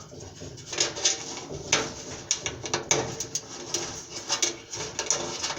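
Irregular clicks and light knocks of sheet-metal parts being handled as a dryer's replacement heating element is pushed and seated into place.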